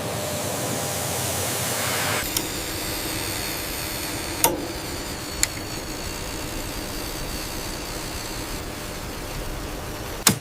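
Steady machine noise with a few sharp clicks; the noise shifts slightly about two seconds in.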